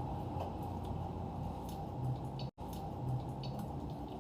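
Faint eating sounds: a few light clicks of a spoon and mouth sounds over a steady low background hum. The sound cuts out for an instant about halfway through.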